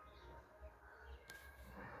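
Faint outdoor ambience with distant birds calling now and then, a single sharp click a little past halfway, over a low steady rumble.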